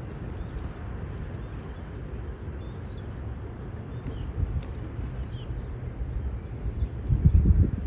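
Wind buffeting the microphone as a low rumble, with a stronger gust near the end. Faint bird chirps come through a few times in the middle.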